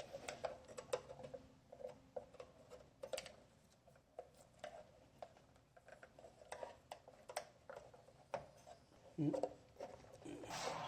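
Scattered light clicks, taps and rubbing from hand work on the installation, with a few louder knocks just before the end.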